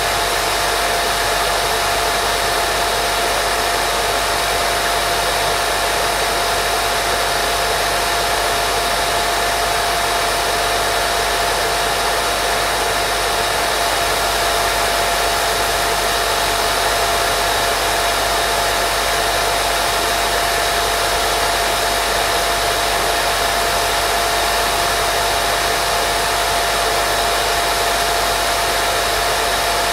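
Steady white noise for baby sleep: an even, unchanging hiss with a thin steady tone running through it.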